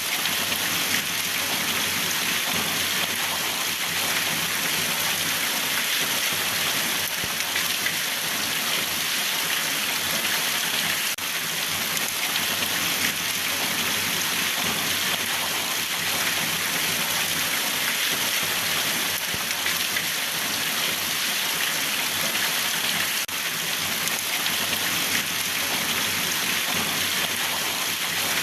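Steady rain falling and pattering on a surface, a constant even hiss with no breaks.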